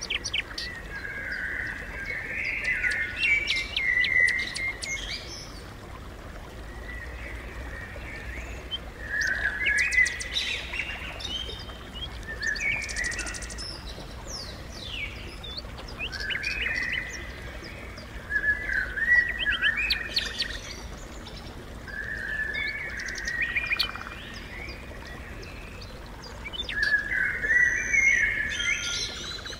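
Birds singing: bursts of quick chirping phrases that recur every few seconds, with quieter background noise in between.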